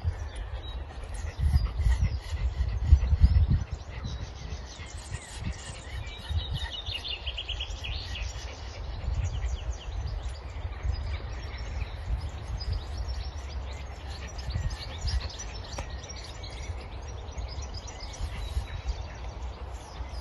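Small birds chirping and singing, with a quick trill about six to eight seconds in, over a low rumble that is loudest in the first few seconds.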